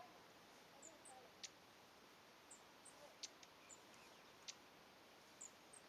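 Faint, very high, thin call notes of long-tailed tits, short and scattered, mixed with a few sharp ticks.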